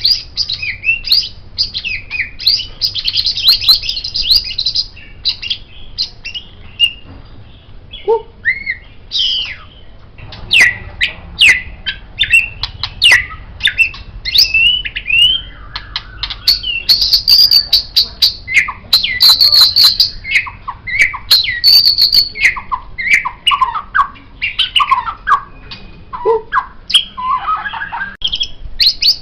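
White-rumped shama (murai batu) singing a long, varied song of clear whistles, sweeping up-and-down glides and rapid trills. A dense run of fast notes comes about three seconds in, and there is a sparser lull a few seconds later before the song picks up again.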